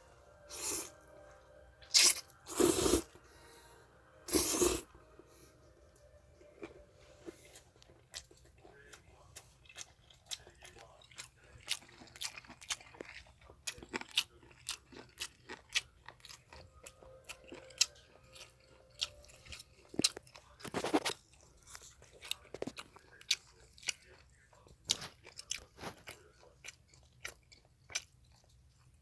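Close-miked eating of japchae glass noodles: steady chewing with many small wet mouth clicks and smacks, broken by a few louder noisy bursts in the first five seconds and once more about 21 seconds in.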